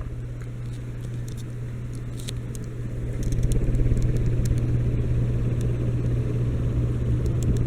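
Heritage Furneaux ceiling fan running, its motor giving a steady low hum under the whoosh of the blades. It gets louder about three seconds in.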